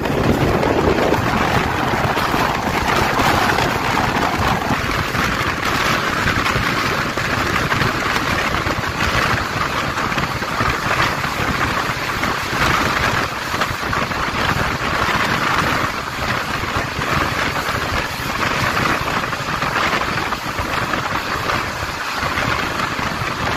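Egyptian Railways passenger train running along the track at speed, heard from an open coach window: a steady rush of wind together with the running noise of wheels on rails.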